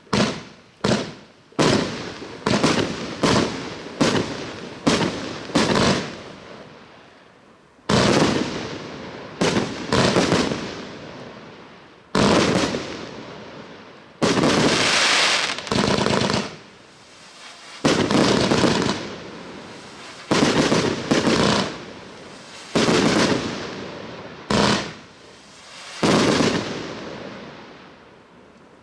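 A 129-shot fireworks compound battery firing: a quick run of bangs, about two a second, for the first six seconds, then spaced volleys of shots with ringing tails, the last of them about 26 seconds in before the sound dies away.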